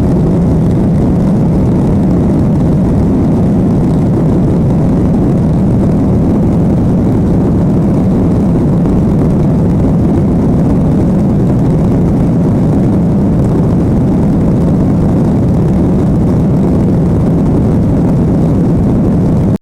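Steady, loud rumble of an airliner's engines and airflow heard from inside the passenger cabin.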